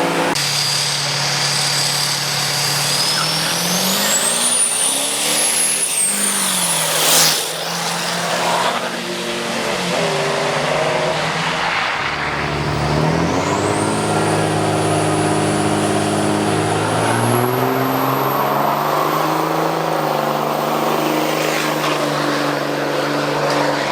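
Drag racing vehicles running hard down the strip, engine pitch climbing and dropping again and again as they shift through gears. A high whine rises steeply twice, and there is a brief loud surge about 7 seconds in.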